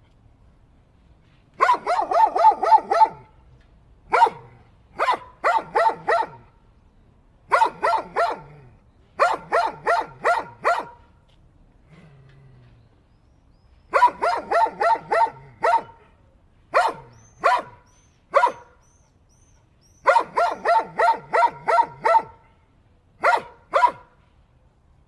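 A dog barking in quick volleys of two to eight barks each, about five barks a second, with short pauses between the volleys.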